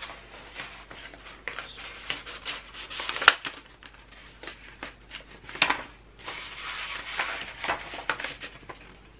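Paper rustling and crinkling as a large ballot paper is folded and slid into an envelope, with a few sharp paper snaps, the loudest about three seconds in.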